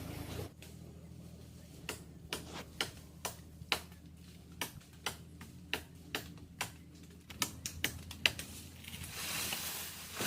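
A run of about twenty sharp, irregular clicks or knocks over some six seconds, followed by a short rush of hissy noise near the end.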